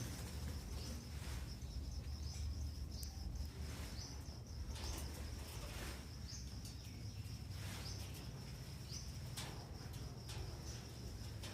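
Short bird chirps every second or two over a steady high-pitched whine and a low background hum.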